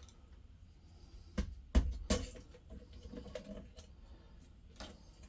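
A few light knocks and clicks, three of them close together in the middle, from handling plastic antifreeze jugs, over a faint low hum.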